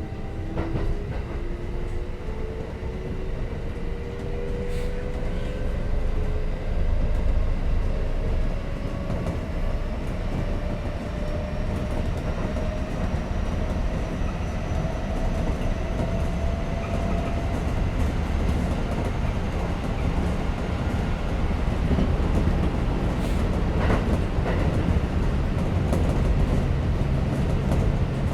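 Kintetsu 5800 series electric train running, heard from inside the car: the traction motors' whine rises steadily in pitch as the train accelerates away from a station, over a constant low rumble of wheels on track. A few sharp clicks from the rails are heard at times.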